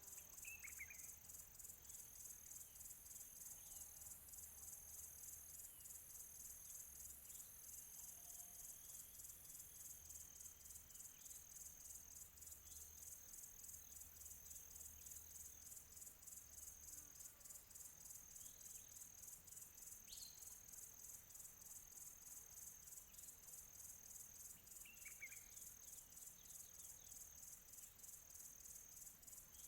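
Faint, steady high-pitched pulsing chorus of insects, with a few short bird chirps just after the start, about twenty seconds in and about twenty-five seconds in.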